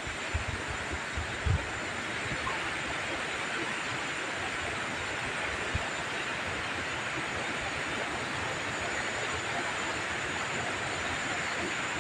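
Steady rain falling, an even hiss, with a few soft knocks in the first two seconds.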